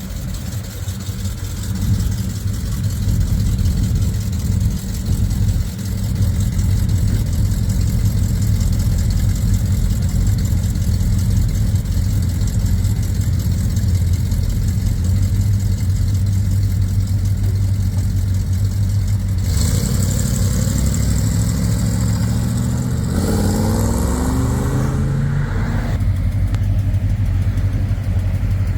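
Car engines running, with a steady low idle rumble. About twenty-three seconds in, one engine revs up, its pitch climbing for roughly three seconds as the car pulls away.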